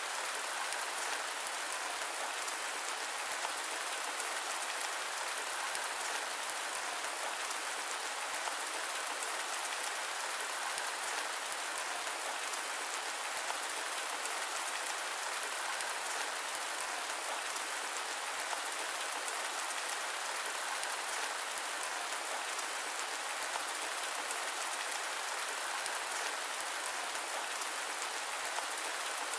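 Steady heavy rain: a dense, even hiss of drops that stays constant throughout, with no thunder and no low rumble.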